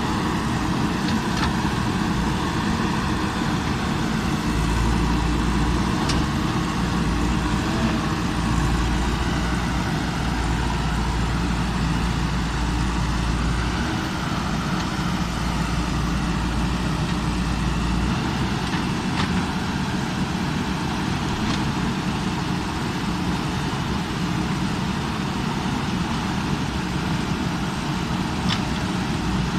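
JCB backhoe loader's diesel engine running steadily, with a deeper low rumble through roughly the middle of the stretch and a few faint sharp ticks.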